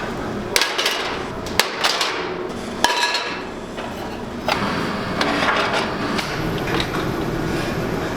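Several sharp knocks and clanks, about five spread over the first few seconds, over a steady background rush.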